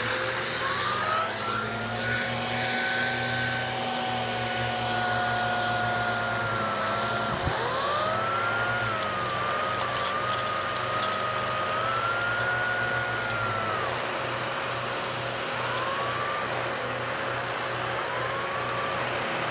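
Vacuum cleaner running with a turbo brush attachment, a steady rushing noise with a whine that rises and falls as the load changes. A few faint crackles come about halfway through.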